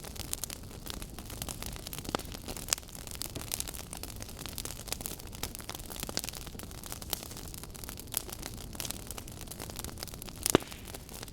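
Wood fire burning, with a steady hiss under frequent sharp crackles and pops from the logs; one louder pop comes near the end.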